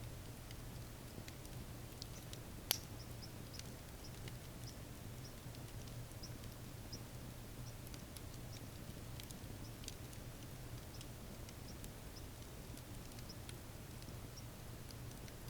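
Wood campfire crackling with scattered small pops and one sharp, louder pop about three seconds in, over a steady low hum.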